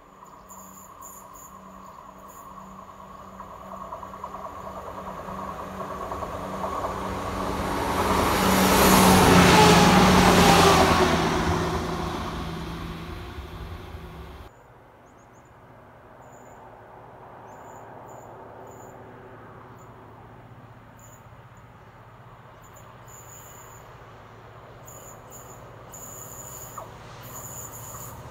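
An unseen vehicle passes: its drone swells to a peak about nine seconds in and then fades, dropping slightly in pitch. After a sudden cut it is quieter, with an approaching train's low rumble building near the end and insects chirping.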